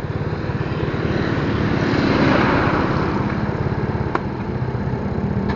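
Motorcycle engine running on the move, a steady low pulsing under road and wind noise that swells through the middle and fades; a short sharp click about four seconds in.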